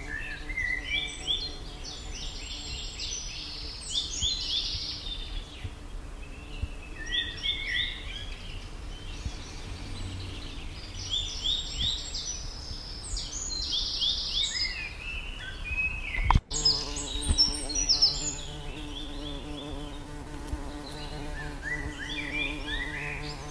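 Birds chirping in quick runs of high falling notes every few seconds over a steady low buzz, with one sharp click about sixteen seconds in.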